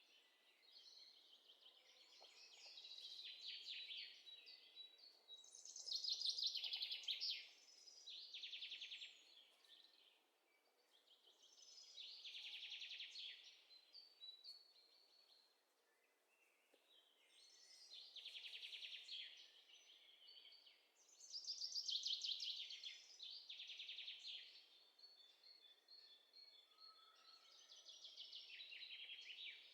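Faint bird song: high, rapidly trilled phrases, each a couple of seconds long, repeating about every five or six seconds.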